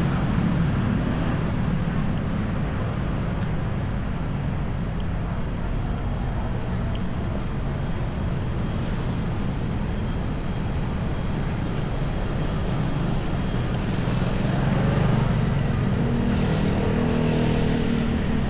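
Steady city-street traffic: a continuous low rumble of passing vehicles, swelling a little near the end.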